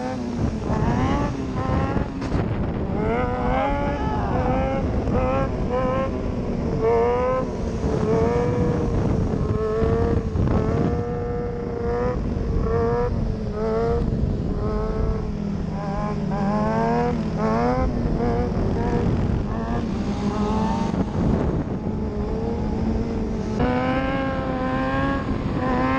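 Motorcycle engines revving hard over and over, the pitch climbing steeply then dropping and climbing again, over a dense low rumble.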